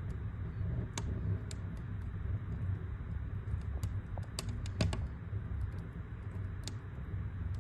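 Wood fire crackling in a fireplace: irregular sharp pops and snaps over a steady low rumble, with a quick run of several pops a little past halfway.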